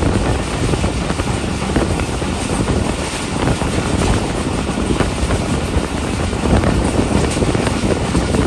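Passenger train running at speed, heard from an open coach door: steady rushing rumble of wheels on the rails, with wind buffeting the microphone.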